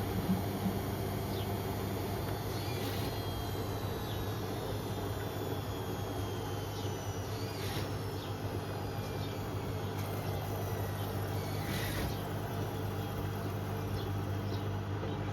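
Beko WM74135 washing machine running mid-cycle: a steady motor hum, with a faint whine that slowly falls in pitch.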